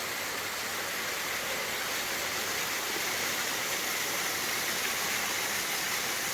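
Small waterfall splashing steadily: an even rush of falling water.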